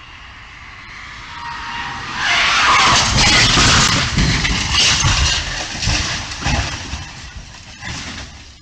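A speeding car crashing and rolling over: about two seconds in, a loud rush of scraping and crunching starts, with repeated heavy thumps as it tumbles, dying away near the end.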